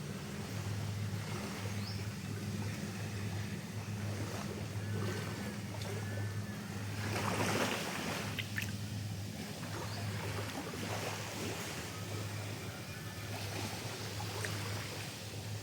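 Steady low drone of a boat engine over a wash of water noise, with a louder rush of water about seven seconds in.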